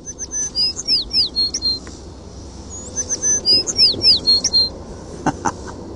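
A songbird singing two short, matching phrases of quick high chirps and down-slurred whistles, a few seconds apart. A few light clicks near the end.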